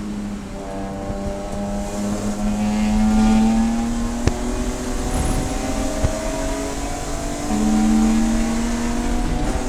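Race car engine heard on board, its pitch climbing under acceleration. A sharp click comes about four seconds in, after which the engine runs lower and builds again. Near the end it jumps to a loud, higher note that falls away.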